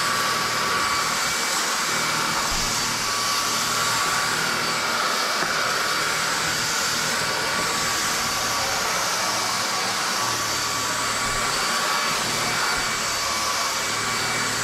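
Lubluelu cordless stick vacuum running at maximum speed while picking up debris: a steady rush of air with a thin, even motor whine over it.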